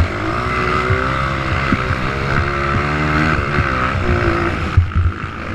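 Motocross motorcycle engines running hard on the track, their pitch wavering up and down with the throttle. The sound drops off sharply near the end.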